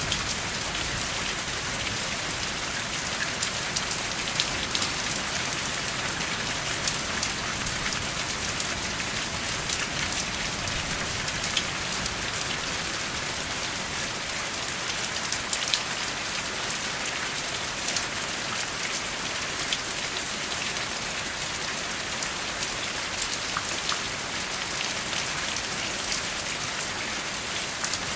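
Steady rain, with many individual drops ticking over a continuous hiss, and no thunder.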